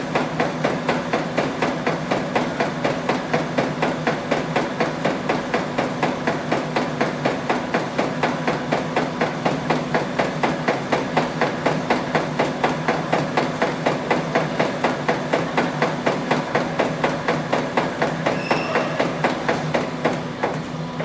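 Automatic folding machine running, with a fast, even clacking of about three or four strokes a second over a steady motor hum. Near the end the clacking stops.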